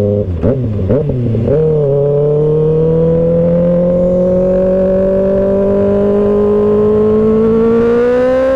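Kawasaki Ninja ZX-6R 636's inline-four engine and exhaust under way. The revs dip and blip a few times in the first second and a half, then climb slowly and steadily as the bike pulls in gear, with a small rise near the end.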